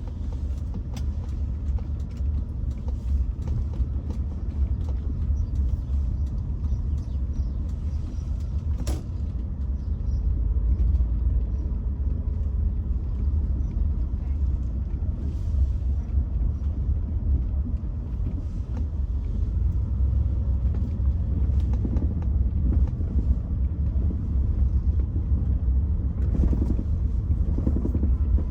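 Car on the move, heard from inside the cabin: a steady low rumble of engine and tyres, with a faint hiss of tyres on a wet road.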